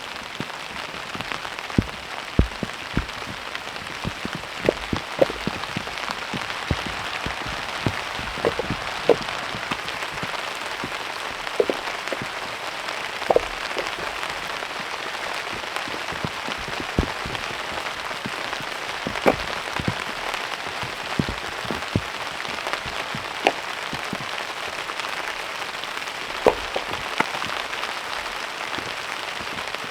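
Heavy rain falling steadily, with louder single drops striking at irregular intervals, a few of them with a brief hollow ring.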